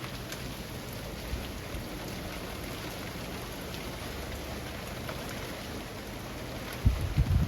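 Steady summer rain falling through leafy trees, an even hiss with scattered individual drops. Near the end, a short cluster of low thuds breaks in, louder than the rain.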